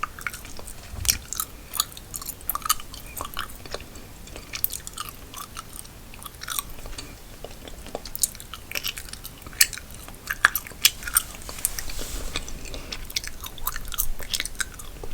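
Close-miked gum chewing: wet, irregular clicks and smacks of the mouth working a piece of gum, several a second.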